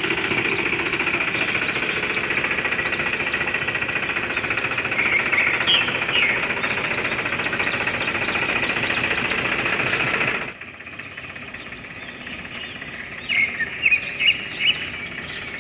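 A small motor runs steadily with a fast, buzzing rattle, then cuts off abruptly about ten seconds in. Birds chirp throughout.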